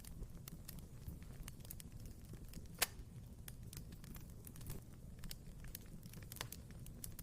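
Wood fire crackling in a fireplace: a low steady rumble of flames under scattered sharp pops and snaps, with one louder pop a little under three seconds in.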